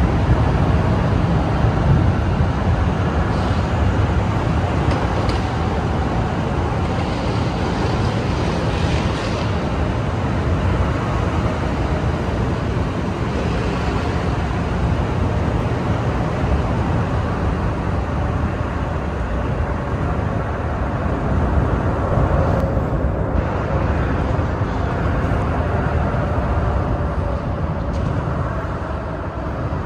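Steady low rumble of an NJ Transit commuter train standing at the platform.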